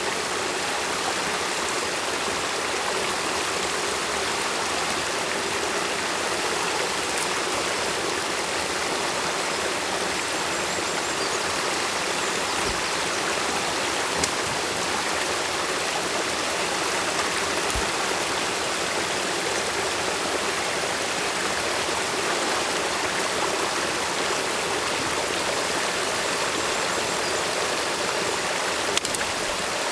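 Stream water rushing steadily over and through a beaver dam, an even splashing hiss with a couple of faint ticks.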